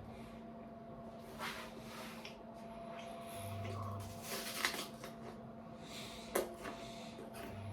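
Chewing a raw apple close to the microphone: soft, wet chewing with a few sharp crunches, the loudest two about a second and a half apart in the second half, over a steady low hum.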